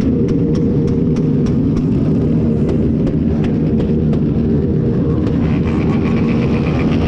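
Many motorcycle engines running loud together in a dense, steady din, with regular sharp cracks about three times a second.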